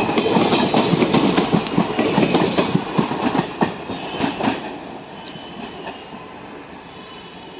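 Express passenger train passing at speed, its wheels clattering fast over rail joints. About four and a half seconds in the clatter ends as the last coaches pass, leaving a fading rumble.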